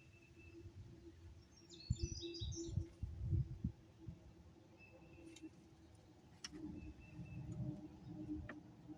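Wild birds calling outdoors: one repeats a short, thin, steady whistle about every two and a half seconds, and another gives a brief burst of high, chattering song about two seconds in. Irregular low rumbles come and go under the calls and are the loudest sound, with a couple of faint sharp clicks.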